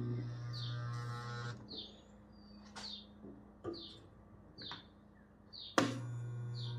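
Welder buzzing in two bursts, a tack weld on tractor sheet metal: the steady hum cuts off about a second and a half in and starts again sharply near the end. A bird chirps about once a second throughout.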